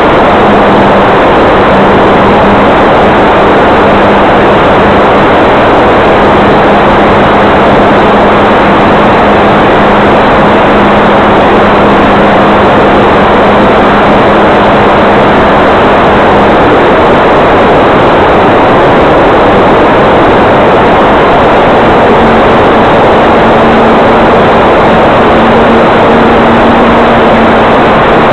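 Electric RC model plane in flight: a loud, steady rush of wind noise with a low propeller hum underneath. The hum fades out about halfway through and comes back at a slightly higher pitch near the end.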